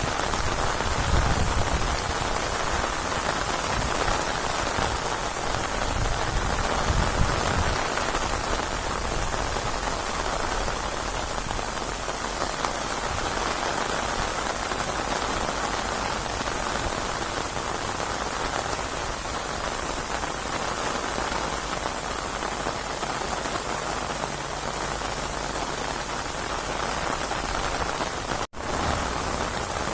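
Steady heavy rain, a continuous hiss, with low rumbles swelling twice in the first several seconds. Near the end the sound cuts out completely for an instant.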